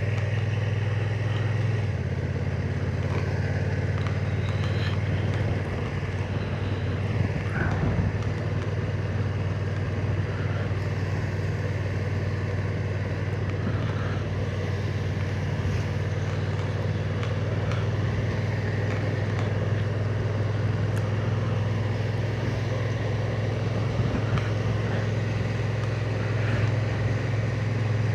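Honda NT1100's parallel-twin engine running steadily under way, with road and wind noise; the engine note shifts slightly about two seconds in.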